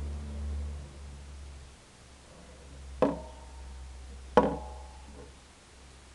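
Two sharp metallic knocks about a second and a half apart, each ringing briefly, over a low hum that fades after the first couple of seconds.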